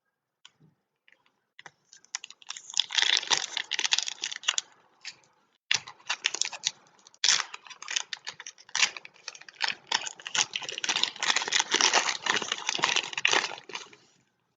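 Foil trading-card pack wrappers being torn open and crinkled by hand, a dense crackling that runs for about twelve seconds with a brief pause in the middle.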